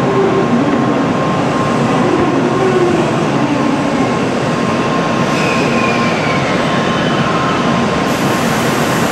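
N700 series Shinkansen standing at the platform, its running equipment giving a loud, steady whirring hum. A faint steady tone runs underneath, and a faint falling whine passes a little after halfway.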